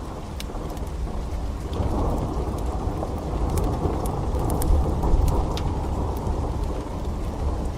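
Steady rain with a low roll of thunder that swells about two seconds in and slowly fades. Scattered sharp pops and crackles of a burning wood fire sound over it.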